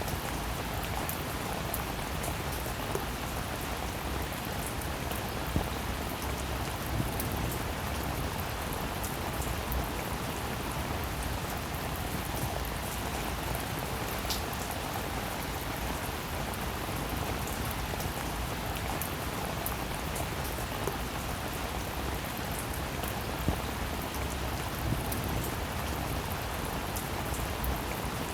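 Steady rainfall, with individual drops ticking through it and now and then a louder single drop.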